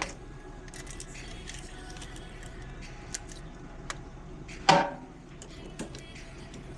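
Scattered light clicks and taps over a low steady background, with one loud knock a little past the middle, like tools or metal parts being handled.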